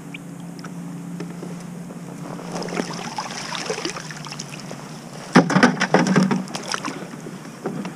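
Maryland blue crab being dipped off a trotline beside a kayak: quiet water and gear noise, then a sudden loud clatter about five and a half seconds in as the crab is landed.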